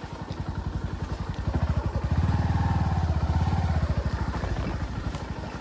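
Motor vehicle engine running with an even, pulsing note; it picks up and grows louder about a second and a half in, then eases off again near the end.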